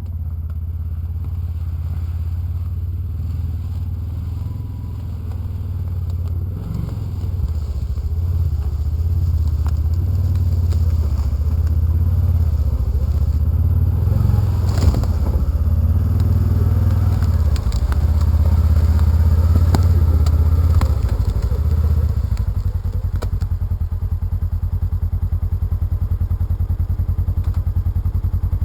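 Polaris Ranger side-by-side's engine running steadily, with clatter and a thump about halfway through. Near the end the engine note settles into an even, rapid pulsing.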